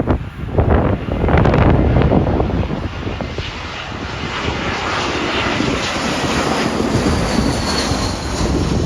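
Jet airliner passing low overhead on final approach to land. Its engine noise builds into a steady rush, with a high whine coming in about halfway through, over wind gusting on the microphone.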